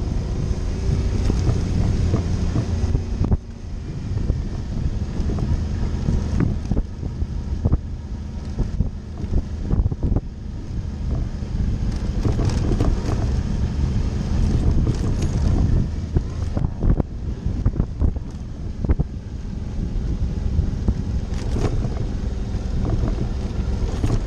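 Suzuki V-Strom's V-twin engine running under way on a dirt trail, with wind buffeting the microphone. Frequent sharp knocks and rattles punctuate it.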